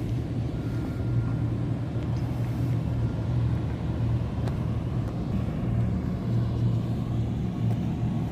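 A car engine idling: a steady low rumble that wavers slightly without ever stopping.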